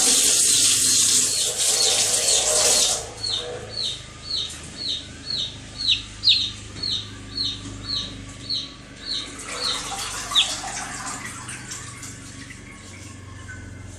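Baby chicks peeping: a steady run of short, high, falling peeps, about two a second, that fades out about ten seconds in. A loud hiss runs under the peeps for the first three seconds.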